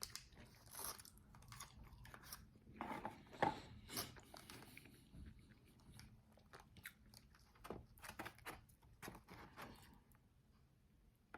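Close-up chewing and crunching of crispy, extra-well-done fried chicken wings, many small crackly bites with a louder crunch about three and a half seconds in, dying down near the end.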